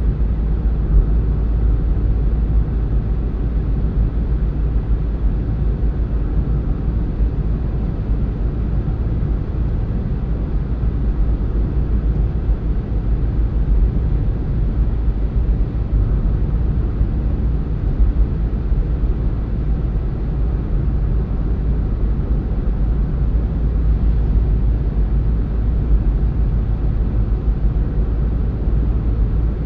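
Steady low rumble of a car on the move: tyre and engine noise at a constant cruising speed.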